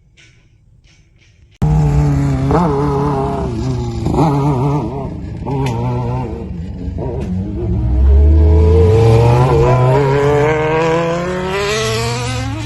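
A racing vehicle's engine accelerating hard, climbing and dropping in pitch several times and then making a long steady climb near the end. The sound cuts in abruptly after a quiet first second and a half.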